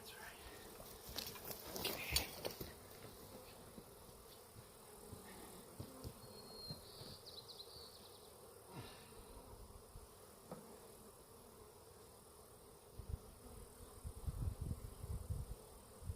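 Honeybees buzzing, with a few short knocks and clicks and some low rumbling bumps near the end.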